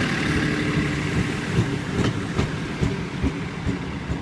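Passenger train rolling past on the station tracks: a steady low rumble with the wheels clacking over rail joints about two to three times a second, slowly fading.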